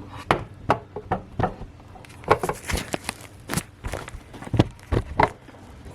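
Irregular clicks and knocks of a camera tripod being handled and adjusted, a dozen or more separate hits with no steady rhythm.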